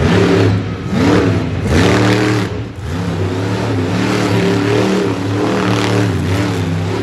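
Monster truck engine revving hard, its pitch climbing and dropping several times over the first few seconds, then held high and fairly steady.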